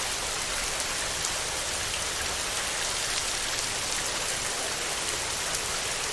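Steady heavy rain: a dense, even hiss with sharp taps of single drops standing out.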